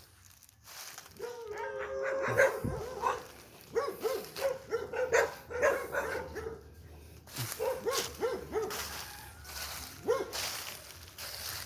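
Small dog barking in runs of short, high yips, with a longer, drawn-out call a little after the start and pauses between the runs.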